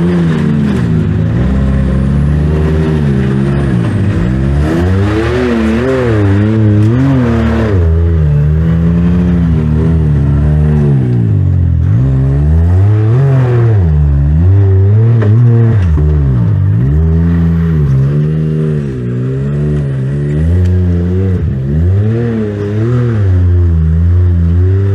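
Can-Am Maverick X3 Turbo side-by-side's turbocharged three-cylinder engine revving hard, its pitch rising and falling over and over as the throttle is worked on and off.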